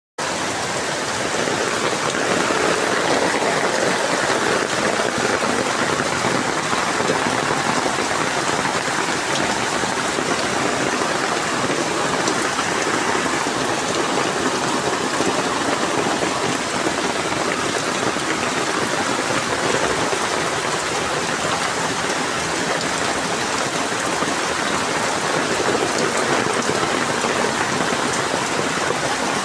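Rain pouring down steadily, an unbroken downpour hissing on surfaces.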